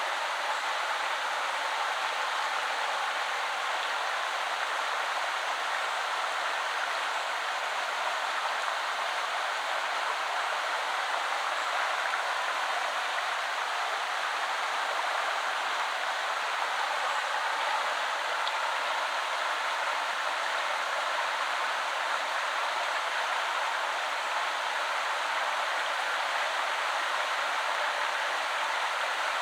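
Shallow river water flowing and splashing over stones, a steady, even rush with no distinct events.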